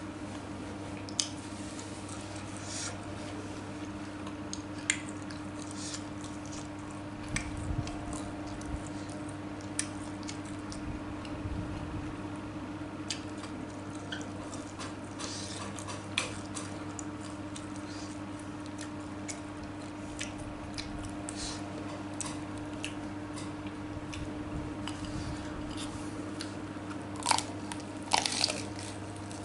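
Close-up chewing and biting of tofu, with soft wet mouth sounds and scattered small clicks over a steady low hum. A few louder sharp clicks come shortly before the end.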